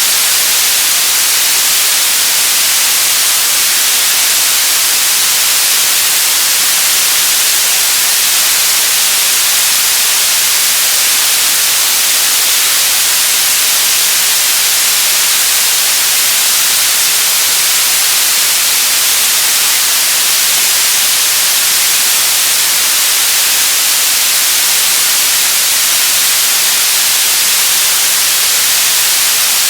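Television static: a steady, loud hiss that leans toward the high end, with no change throughout.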